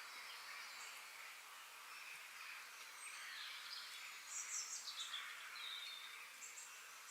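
Outdoor nature ambience: a faint, steady background hiss with a songbird singing a quick run of notes that steps down in pitch about four to five seconds in, and a few short high chirps.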